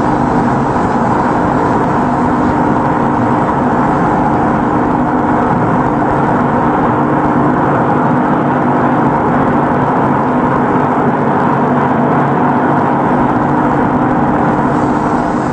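Steady mechanical hum and whir of machinery running continuously, with a constant low drone under an even noisy rush.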